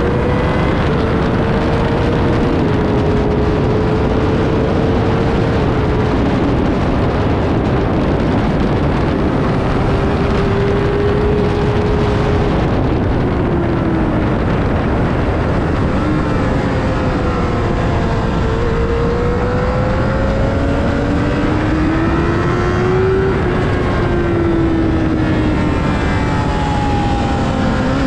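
Sportbike engine running hard at speed, its pitch climbing and dropping repeatedly, under a steady, heavy rush of wind noise.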